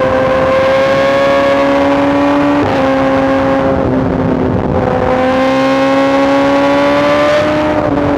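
BMW S1000RR inline-four sportbike engine through a full Arrow exhaust, pulling under throttle with its pitch rising. It shifts up about two and a half seconds in, eases off briefly around four seconds, then pulls again and shifts up once more near the end.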